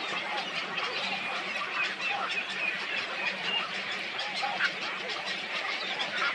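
A dense chorus of many birds calling at once, short overlapping calls with no pause, over a faint steady low hum.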